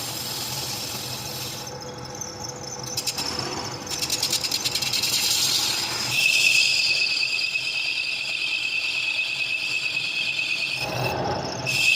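Metal machining: a cutting tool working a steel part, with a rapid rattle a few seconds in. From about halfway a steady high-pitched squeal sounds, breaking off briefly near the end.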